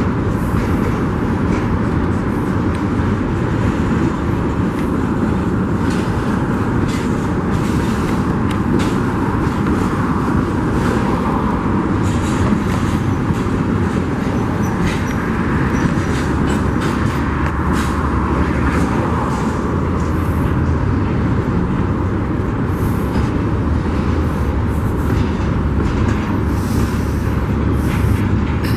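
Union Pacific freight train rolling past, a steady rumble of wheels on rails with scattered clicks and clanks from the cars.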